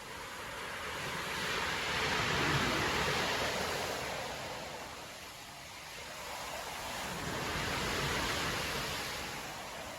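Storm waves breaking and washing up a beach, a rushing noise that swells and fades twice, loudest between two and three seconds in and again around eight seconds.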